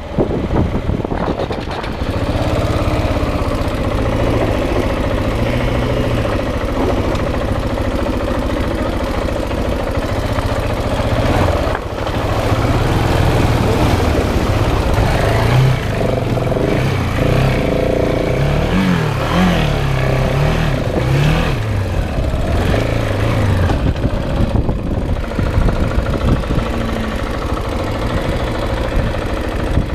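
Single-cylinder dual-sport motorcycle engine running under way, with its pitch rising and falling several times in the middle as the throttle is opened and closed.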